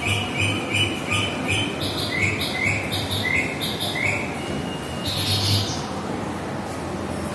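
A bird calling: a run of about a dozen short chirps, two to three a second, some sliding upward, then one longer, harsher call about five seconds in.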